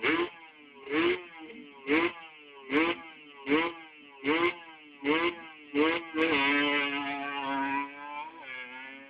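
Drag-racing motorcycle engine revved in eight quick throttle blips, about one every 0.8 s, each a fast rise and fall in pitch. About six seconds in it is held at high, fairly steady revs for around two seconds, then dies away.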